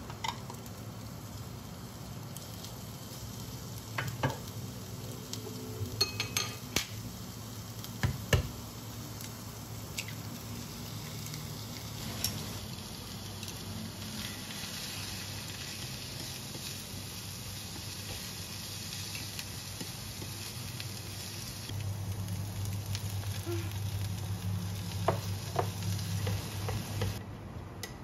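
Shredded cabbage and egg frying in a small nonstick pan on an induction hob, sizzling steadily. A few sharp knocks come in the first several seconds, and quick taps of stirring against the pan come near the end.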